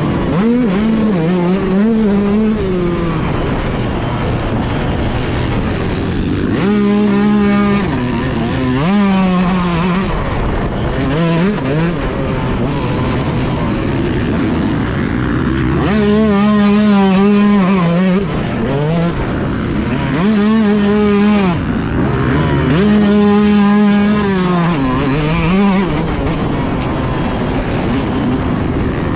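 Motocross motorcycle engine racing around a track, its revs climbing and dropping over and over as the rider accelerates, shifts and backs off. Between the clear pulls there is a rough rushing noise.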